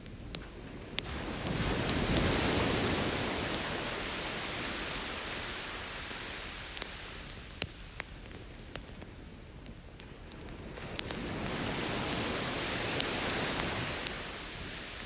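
Ocean waves washing onto the shore, swelling and fading twice, while a wood campfire crackles with scattered sharp pops.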